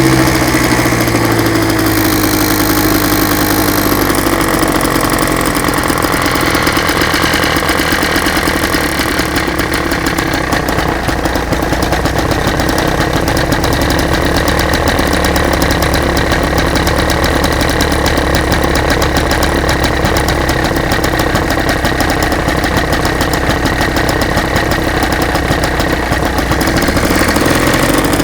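Rebuilt WSK Gnom R06 small two-stroke engine running with its silencer fitted. Its revs fall to a steady idle over the first few seconds and pick up again near the end.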